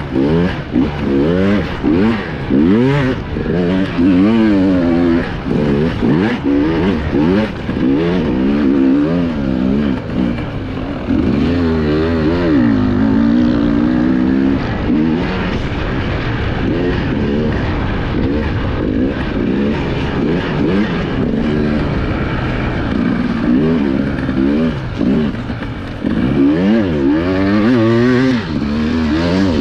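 Enduro motorcycle engine heard from the rider's onboard camera, revving up and down continuously as the throttle is worked on and off.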